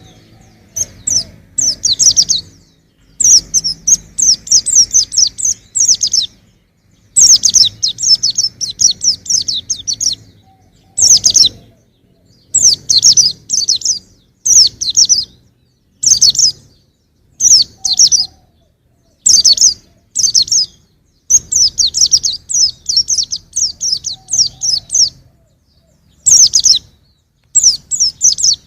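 Young white-eye (pleci) singing: loud phrases of rapid, high twittering notes, each one to three seconds long, repeated with short pauses.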